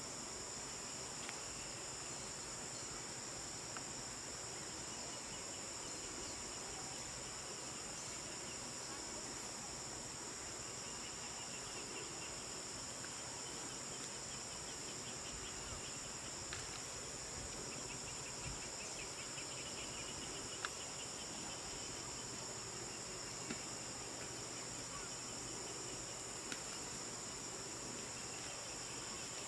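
A steady, high-pitched chorus of insects such as crickets, with a softer pulsed trill coming in twice and a few faint clicks.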